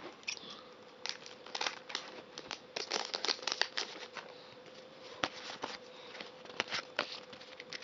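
A foil Pokémon card booster pack crinkling and being torn open, in irregular crackles, as the cards are pulled out.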